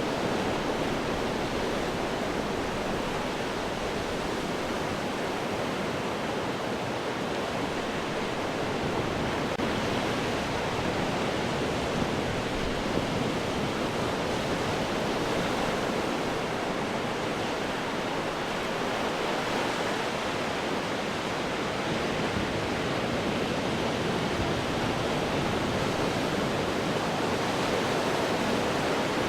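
Ocean surf breaking on rocks: a steady rushing wash of water that swells and eases slowly, without pause.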